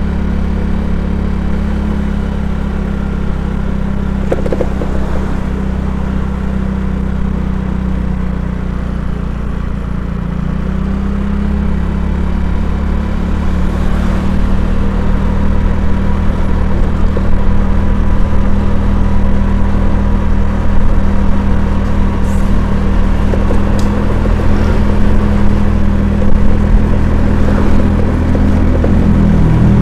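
Engine of the vehicle carrying the camera running steadily on the move. Its note rises about a dozen seconds in, and it gets louder after that.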